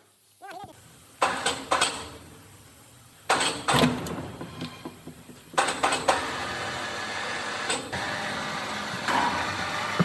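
A few sharp metallic knocks, then about halfway through a vehicle engine starts and runs steadily, with an occasional knock over it.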